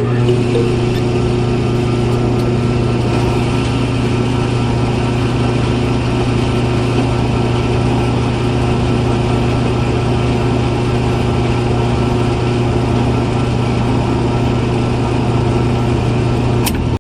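Small motor running steadily at an even speed, with a strong hum and a constant level. It cuts off suddenly near the end, just after a click.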